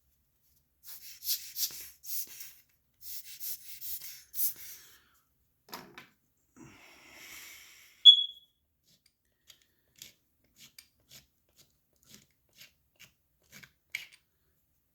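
Scraping and rubbing on a watch in short strokes over the first few seconds, then a brief sharp high squeak about eight seconds in, the loudest sound, followed by small scattered clicks of watch parts and tools.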